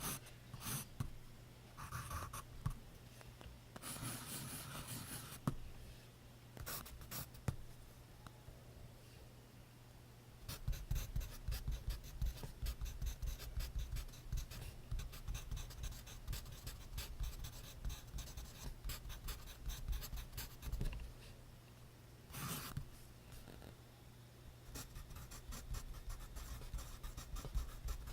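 Pencil scratching on paper in quick, dense strokes, with a few scattered scratches at first and paper rustling twice, about 4 seconds in and again past the middle.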